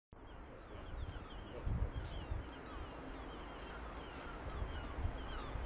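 Birds calling over and over with short chirping calls. A low rumble swells and fades a few times underneath.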